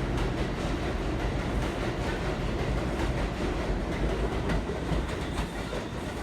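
New York City Subway train running on the rails: a steady rumble of wheels and cars with light clicking over the rail joints.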